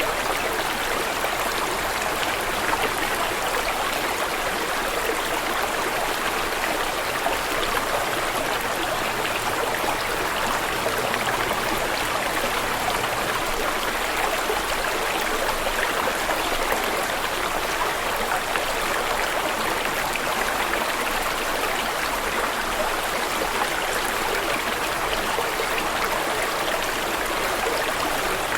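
Stream of running water flowing and splashing steadily.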